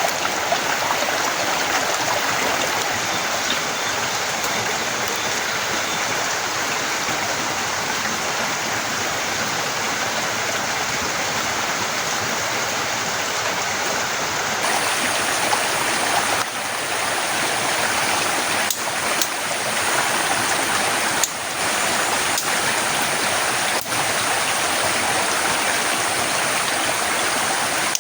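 Heavy rain falling steadily, a dense even hiss, with a few sharp ticks and brief dips in the second half.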